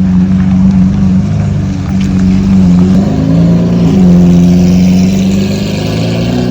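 Loud car engine running, its pitch dipping and rising a few times as the revs change.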